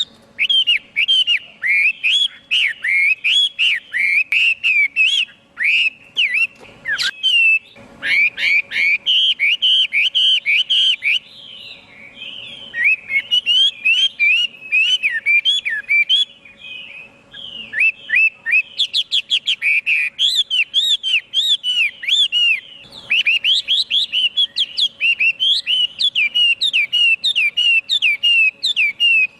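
Chinese hwamei singing a long, rapid song of loud, varied whistled notes sweeping up and down, broken by a few short pauses. A faint steady hum lies underneath.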